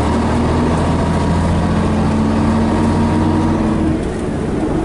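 Scania BR111H bus engine running steadily under way, its note changing and easing briefly about four seconds in.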